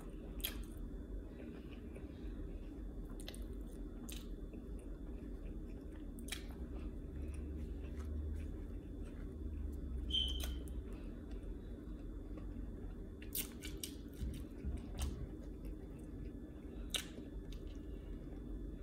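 Chewing a burger on white bread and fries close to the microphone, with scattered sharp mouth clicks and smacks every second or few.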